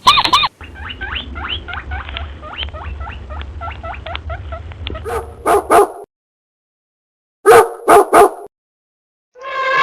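A dog barking: two quick sets of three loud barks, about two seconds apart. Before them comes a stretch of many quick, small, high chirps over a low hum, and just before the end a long, falling, wavering call begins.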